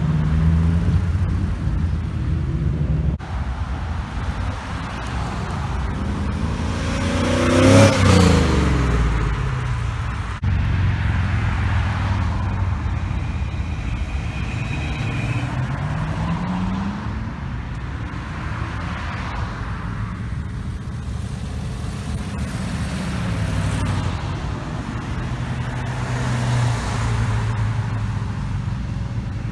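Car engines and exhausts running as cars drive out past. One car passes close and loud about eight seconds in. Another engine rises in pitch as it accelerates around the middle.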